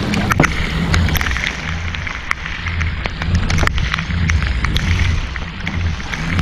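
Rain falling on a kayak, with many scattered sharp drop hits. Under it, a loud, uneven rumble of wind buffeting the microphone.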